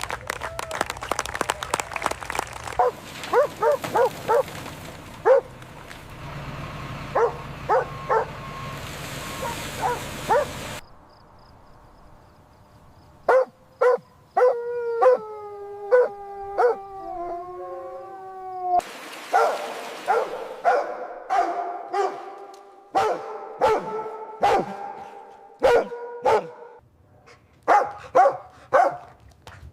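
A dog barking in short, sharp, repeated barks. About halfway through, it howls for a few seconds with a wavering pitch.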